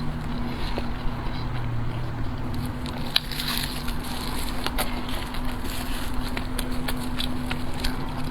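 Eating sounds: a few sharp crunchy clicks of biting and chewing over a steady low hum and background noise.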